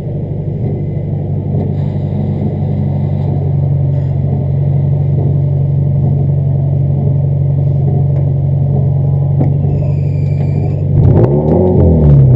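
Toyota GT86 rally car's flat-four engine heard from inside the stripped cabin, running steadily while the car sits still. About eleven seconds in it is revved up and down repeatedly and gets louder, as the start light turns green for the launch.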